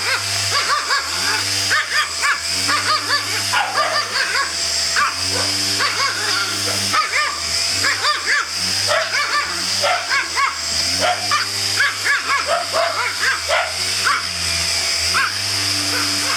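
Pomeranian barking and yipping at a running vacuum cleaner, dozens of short high yaps throughout, over the vacuum motor's steady whine.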